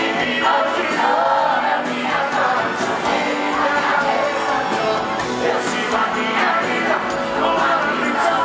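Live sertanejo band music with singing over it.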